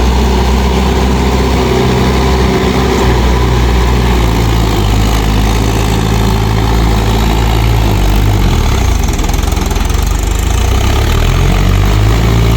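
Mahindra 585 DI tractor's diesel engine running steadily. Its note wavers and drops for a couple of seconds about eight seconds in, then picks back up.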